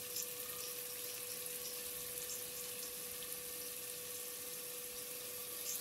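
Boneless chicken frying in oil and tomato masala in an aluminium pot: a steady sizzle with small scattered crackles, over a faint steady hum.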